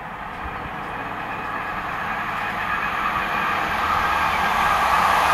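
Intercités train hauled by an SNCF BB 15000 electric locomotive approaching at speed, its running and rail noise growing steadily louder.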